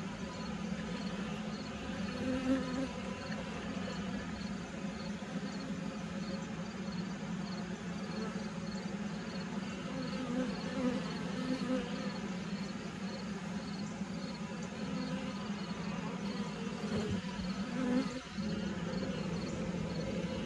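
Honeybees humming steadily around an open horizontal hive, a continuous buzz of many wings.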